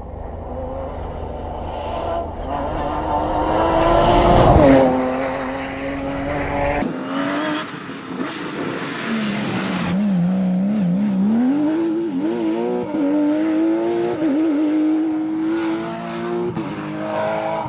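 Porsche competition car's engine driven hard. Its pitch climbs to a loud peak about four and a half seconds in, drops sharply as the throttle lifts, then rises and falls repeatedly with throttle and gear changes.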